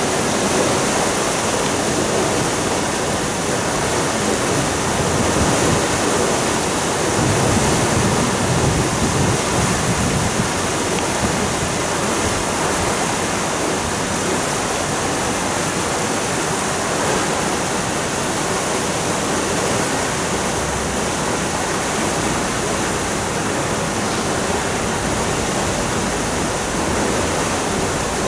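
Steady rush of water pouring through the opened sluices of a canal lock's lower gates as the lock drains, churning the pool below the gates.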